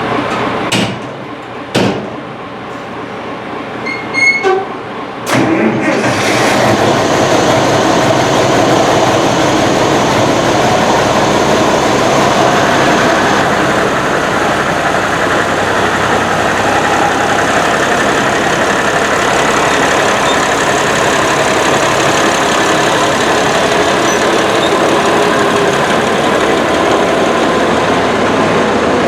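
Diesel tractor engine running steadily and loudly, after a few sharp knocks in the first seconds; the engine noise swells up to full level about six seconds in.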